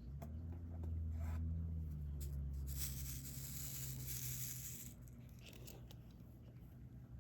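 Rustling of a small plastic bag of diamond-painting drills for about two seconds, with a few light clicks of handling and a steady low hum underneath.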